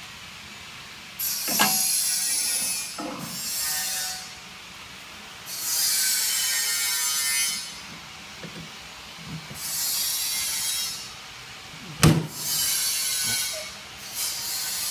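DPP88 blister packing machine running in cycles: six bursts of hiss, each lasting a second or two, with a few clunks, the loudest about twelve seconds in.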